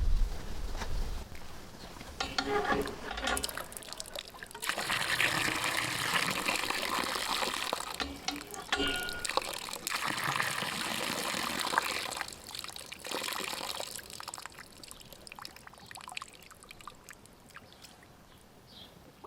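Water running and pouring in spells, heaviest for several seconds in the middle, then tapering off.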